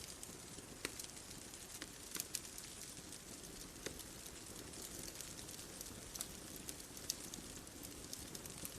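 Wood fire crackling: irregular sharp pops and snaps, several a second and some louder than others, over a steady soft hiss.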